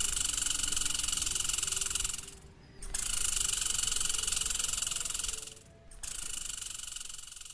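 An animal giving three long, rapid buzzing trills of about two seconds each with short breaks between them; the last trill is fainter.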